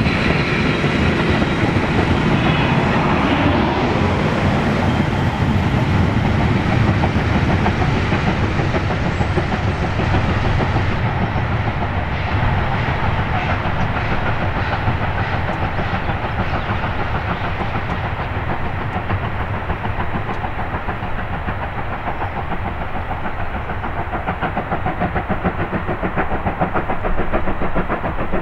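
Vintage steam-hauled passenger train passing close by, its carriage wheels clattering steadily over the rail joints. The sound eases off somewhat in the second half as the train draws away.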